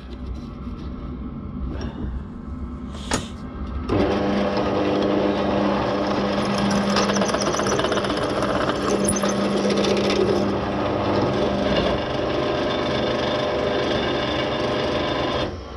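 Electric welder laying a weld: a dense, crackling buzz over a steady hum that starts about four seconds in and cuts off abruptly near the end. A few light clicks and knocks come before it.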